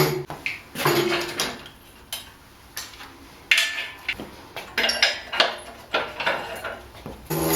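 Metal tools and engine parts clinking and clattering as they are handled, about a dozen sharp separate clinks. A short steady hum sounds about a second in and again near the end.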